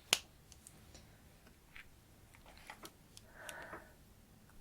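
Makeup tools being handled: one sharp click just after the start, then scattered faint ticks and a soft rustle a little past the middle.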